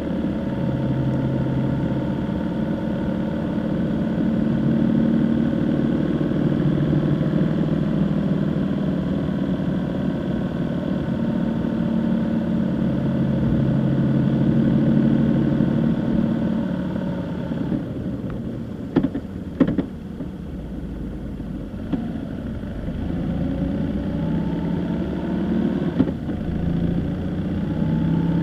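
A vehicle engine running on the move, its pitch rising and falling with speed. About two-thirds of the way through it eases off, and a few sharp clicks sound before it picks up again.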